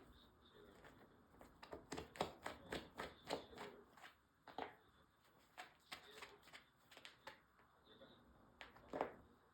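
A cat batting with its paws: a quick flurry of soft pats and scuffles for a couple of seconds, then scattered single taps.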